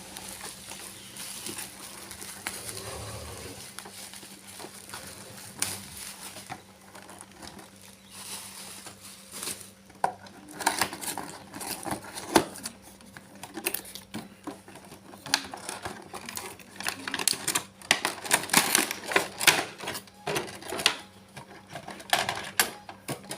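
Toy excavator's cardboard box and plastic packaging being handled and opened: irregular crinkles, taps and clicks, sparse at first and much busier from about halfway through.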